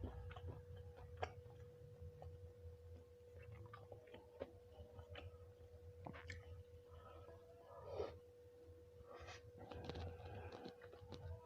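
Quiet eating sounds: a person chewing, with scattered small clicks of mouth and utensils, over a faint steady hum.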